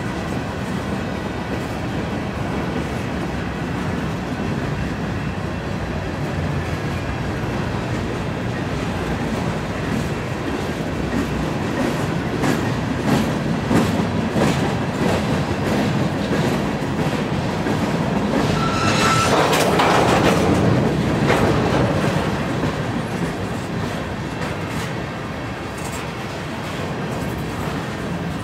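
Long freight train of flatcars, hoppers and boxcars rolling past at about 40 mph. A steady rumble of steel wheels on rail runs throughout, with rattling cars and repeated clicks of wheels over rail joints. About two-thirds of the way through, the noise swells louder with a brief high squeal.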